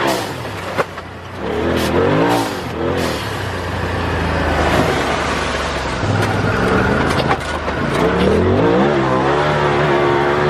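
Turbocharged side-by-side UTV engine revving up and down repeatedly under throttle while driving off-road, with a few sharp knocks.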